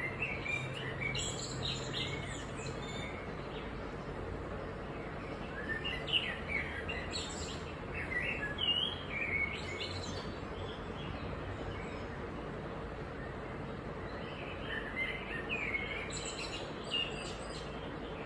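Birds chirping in three short bouts of quick high chirps, over a steady faint hum.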